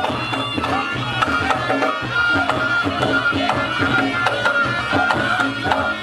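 Reog Ponorogo ensemble music: a wavering shawm (slompret) melody over a steady pattern of rapid hand-drum strokes.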